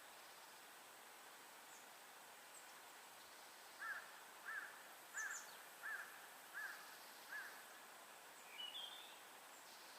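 A faint, steady forest hiss with a bird calling six short, evenly spaced notes, about two-thirds of a second apart, starting a few seconds in. A couple of higher chirps follow near the end.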